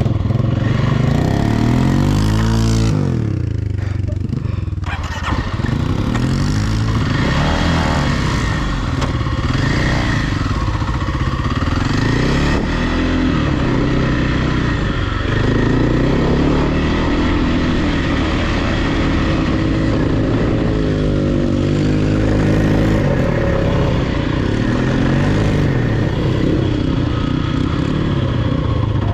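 Off-road vehicle engine being ridden hard, revving up and down over and over, its pitch rising and falling every second or two.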